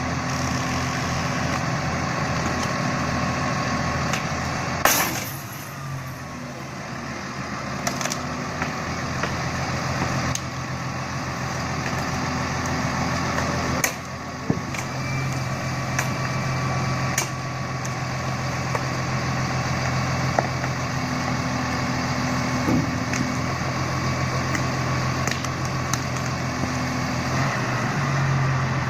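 Heavy tree-pulling machine's diesel engine running steadily, with a loud sharp crack about five seconds in and several shorter knocks later; the engine note grows stronger about halfway through.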